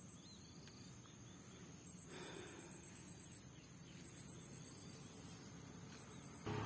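Faint insects, crickets by their sound, chirping in a steady high trill.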